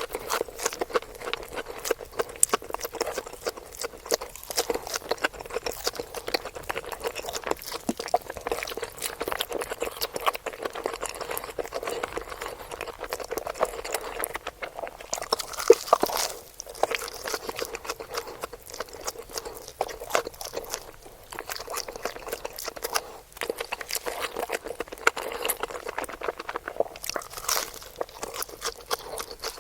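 Close-miked chewing and biting of food: a dense run of wet mouth clicks, smacks and crunches.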